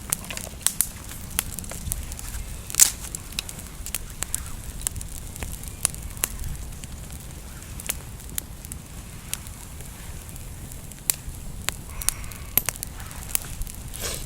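Campfire of wet natural kindling crackling, with irregular sharp pops, the loudest about three seconds in.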